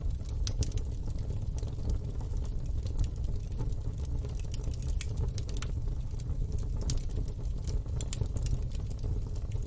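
Wood fire in a fire pit crackling, with irregular sharp pops over a steady low rumble.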